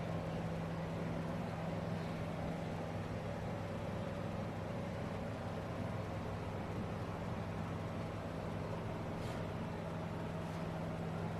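Steady mechanical hum of a machine running, holding one pitch.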